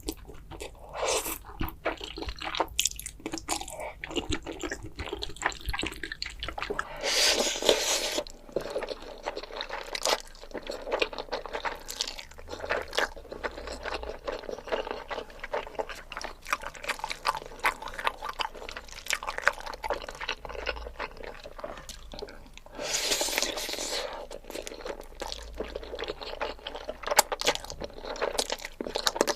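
Close-miked eating of carbo fire noodles: wet chewing and mouth smacks with crunchy bites, and two longer slurps, about seven and twenty-three seconds in.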